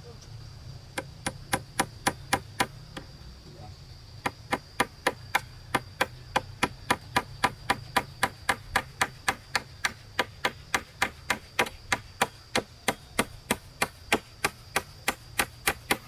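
Rapid, even strikes of a hand tool into wood, about three to four a second. A short run of about eight comes first, then a pause of over a second, then a long steady run that lasts almost to the end.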